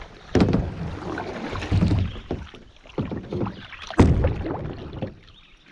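Kayak on the water: paddle strokes and splashing, with several sharp hollow knocks against the hull. The loudest knock comes about four seconds in, in shallow water where the boat bumps rocks and logs.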